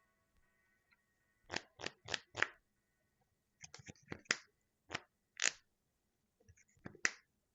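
Trading cards being handled on the play table: a string of short scraping and snapping sounds, four in quick succession, then several more spaced out.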